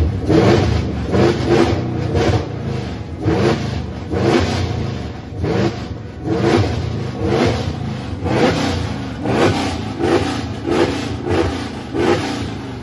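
Gen 1 Ford Coyote 5.0-litre V8 being revved in quick repeated blips, about two a second, the pitch rising and falling with each one.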